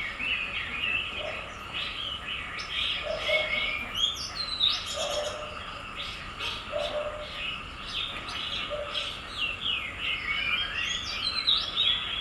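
Many small birds chirping and twittering at once in a busy, overlapping chorus, with short low notes recurring every second or two beneath it.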